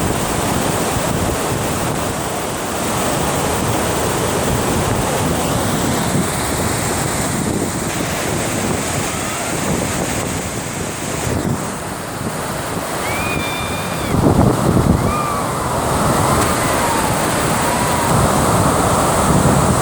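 Water rushing steadily over a dam, with wind gusting on the microphone, most heavily about two-thirds of the way through.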